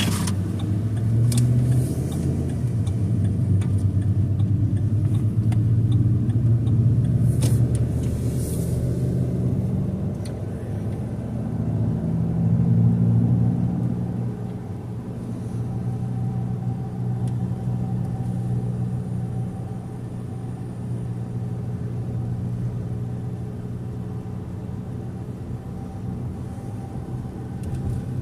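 Car engine running with a steady low hum, louder through the first half and easing off after about fourteen seconds. A few sharp clicks stand out in the first ten seconds.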